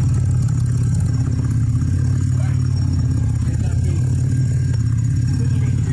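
Hot rod engine idling steadily, with a low, even exhaust note.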